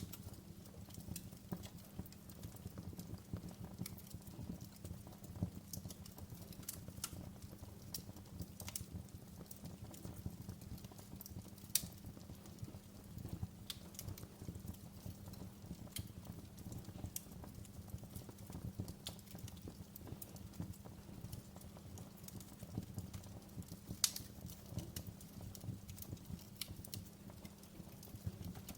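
Wood fire crackling in a fireplace: irregular sharp pops and snaps over a low, steady rumble, with two louder pops about twelve and twenty-four seconds in.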